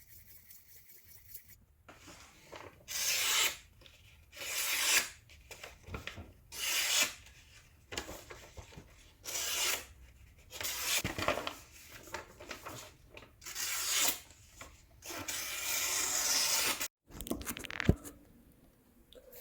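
A kitchen knife being sharpened: the blade is drawn across a sharpener in repeated rasping strokes, about one every second and a half, the last one longer.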